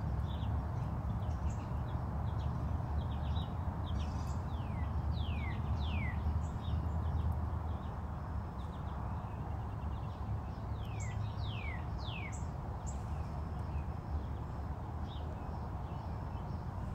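Small birds chirping outdoors, with quick downward-sliding calls in runs of three about five seconds in and again about eleven seconds in, over a steady low rumble.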